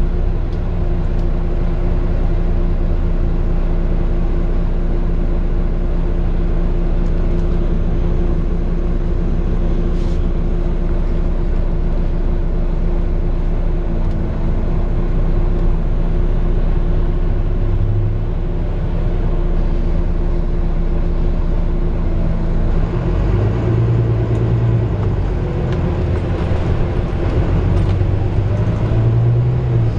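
Volvo B9TL double-decker bus's six-cylinder diesel engine running, heard from inside the bus, a steady drone with road rumble. About three-quarters of the way in the engine note changes, and it rises near the end as the bus pulls away.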